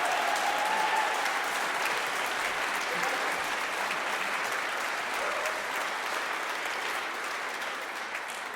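Audience applauding, the applause gradually dying down near the end.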